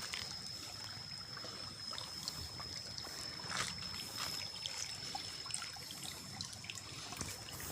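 Small mountain stream of waterfall runoff trickling and splashing steadily, with a few brief sharper splashes. A steady high-pitched tone runs beneath it.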